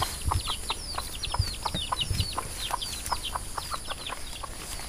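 Birds chirping rapidly in short falling notes, several a second, over a steady high whine, with soft low thumps of footsteps through vegetation.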